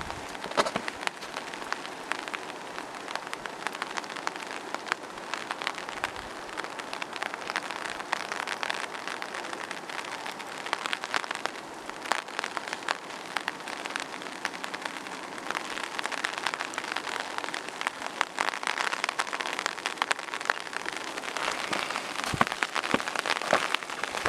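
Rain pattering steadily on surfaces, a dense run of small drop ticks.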